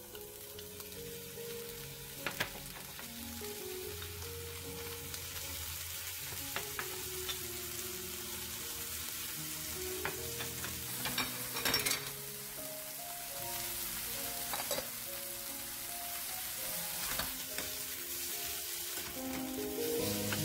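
Vegetables sizzling in sesame oil in a hot nonstick frying pan as they are added and stir-fried, with a few sharp clicks of the utensil against the pan, the loudest about halfway through. Soft background music plays under it.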